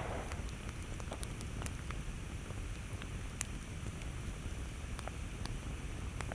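Campfire burning steadily with a low rumble, and scattered sharp wood crackles and pops.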